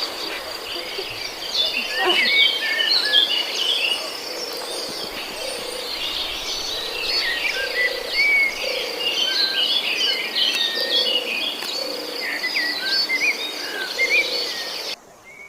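Tropical forest ambience: a steady high insect buzz under many birds chirping and whistling, with a low call repeating every second or so. It cuts off just before the end.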